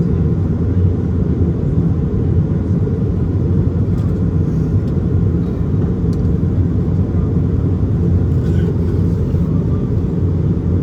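Steady low rumble of an Airbus A220's cabin in flight: its Pratt & Whitney PW1500G geared turbofan engines and the rush of air over the fuselage, heard from inside the cabin.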